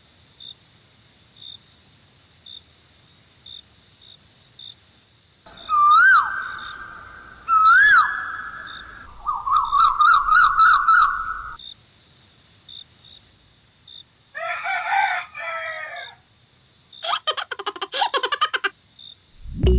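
Farmyard bird sounds: two whistled calls, a quick trilling call, then a crowing, rooster-like call and a rapid run of clicks, over a faint steady high tone that ticks softly about once a second.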